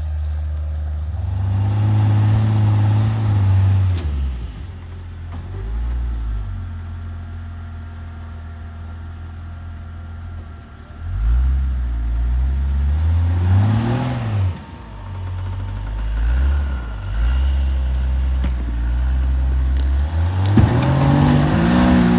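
Off-road truck engine revving up and dropping back in several bursts as the truck climbs a rock ledge, with a lower steady engine note between the revs.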